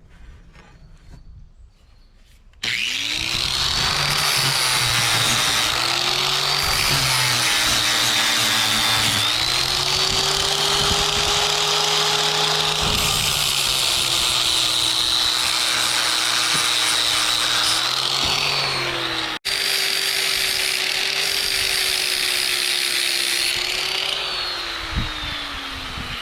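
Angle grinder grinding a steel bracket: the motor starts suddenly and runs under load, its pitch dipping and recovering as the disc bites the metal, then winds down near the end.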